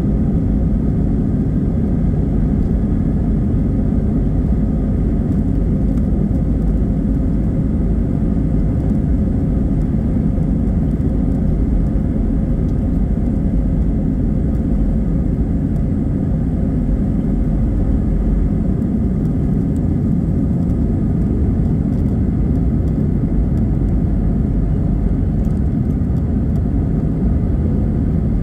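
Airbus A320 airliner running steadily: a constant low rumble with a faint, even hum on top and no change in pitch.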